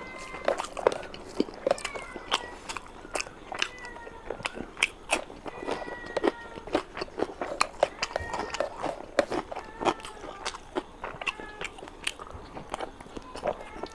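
Close-miked wet chewing and lip smacking of rice and curry, a steady stream of short clicks, with squelching as bare fingers mix the rice into the gravy.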